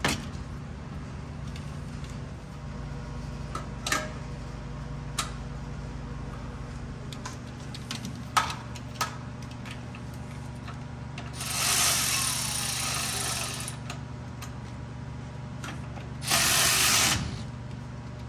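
Cordless electric ratchet running twice in bursts, about two seconds and then about one second long, driving 15 mm engine mount bolts tight, with scattered clicks of tools and sockets between runs over a steady low hum.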